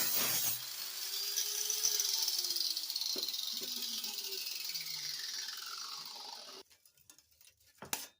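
Angle grinder with a diamond cutting wheel cutting stainless steel exhaust pipe. Its whine then falls steadily in pitch as the wheel spins down, stopping about six and a half seconds in, followed by a couple of light clicks.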